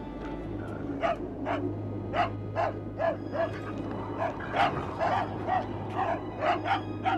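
A dog barking repeatedly in short, sharp barks, two to three a second, over a low steady hum.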